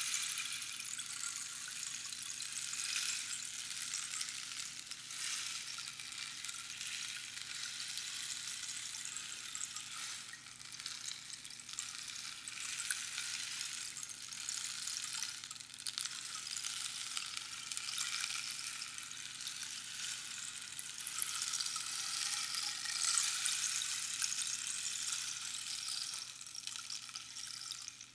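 Rainstick cascading: small pebbles trickling down past the pins inside the hollow tube in a continuous rain-like hiss that swells and eases, dropping away sharply at the very end.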